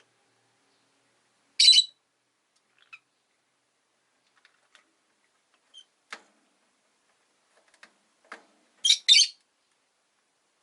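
Rosy-faced lovebirds calling: one loud, short call about a second and a half in and two more back to back near the end, with faint clicks and soft chirps between.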